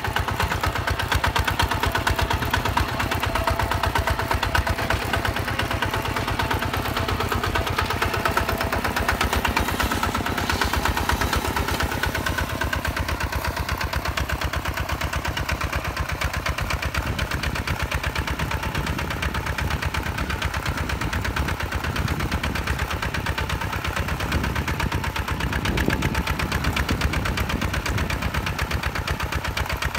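Single-cylinder diesel engine of a Hinota HG Gold 155 DI paddy-field tractor running steadily, with a fast, even firing beat.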